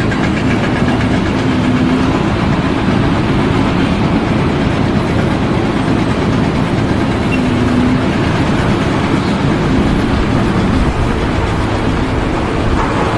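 Loud, steady engine and machinery noise with a low rumble.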